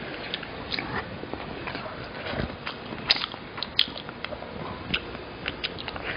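Close-miked eating: chewing and biting, with scattered sharp clicks and crunches.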